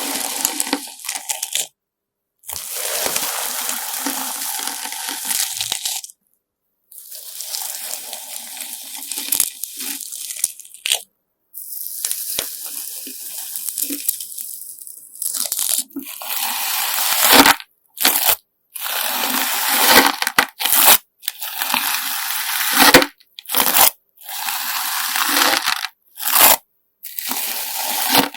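Hands squeezing and pressing a homemade slime mixed with coloured sand, making a grainy crunching and crackling. It comes in long stretches of a few seconds, then in shorter, quicker squeezes over the second half, each one cut off abruptly.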